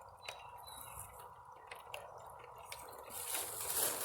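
Rain dripping, with scattered small ticks of drops. A louder rustling hiss builds near the end.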